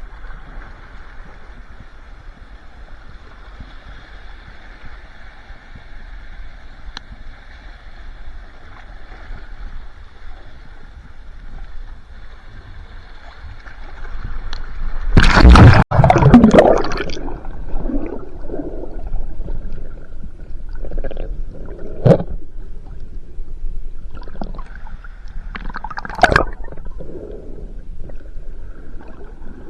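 Churning seawater heard through an underwater camera: a steady muffled hiss, then a loud rushing surge about halfway through, followed by uneven gurgling rushes and two sharp knocks.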